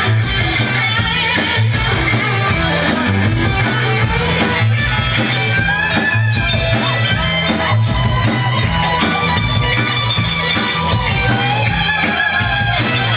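Amplified band music led by electric guitar over a steady bass line and beat, with no singing.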